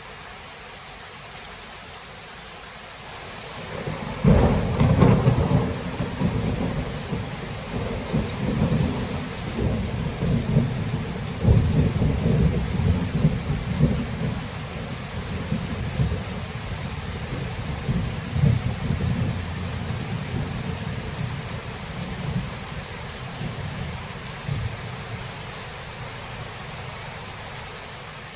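Steady rain with a clap of thunder about four seconds in, followed by a long rumble that rolls and swells for some twenty seconds before fading back into the rain.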